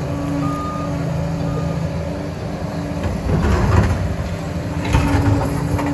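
Liebherr PR 746 crawler dozer's diesel engine running steadily, with two short high beeps near the start and louder rough rumbling surges about three and five seconds in as the machine works.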